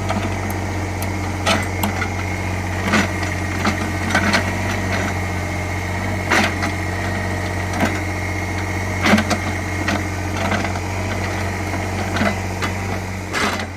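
Small CAT excavator's diesel engine running steadily, with short sharp knocks and clanks about every one to two seconds as it works the soil.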